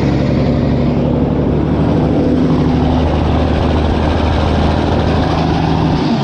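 A 1994 International dump truck's Cummins N14 diesel engine idling steadily, cold, shortly after its first start.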